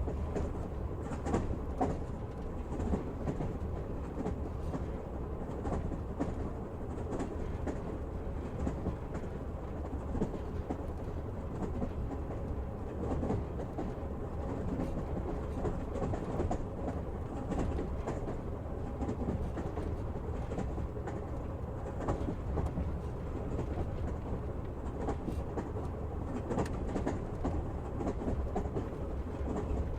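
Train running on rails, heard from inside a carriage: a steady low rumble with irregular clacks of the wheels passing over rail joints.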